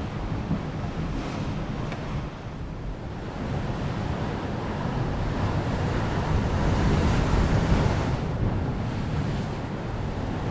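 Strong wind buffeting the microphone over waves breaking on the shore, swelling louder in the middle and easing near the end.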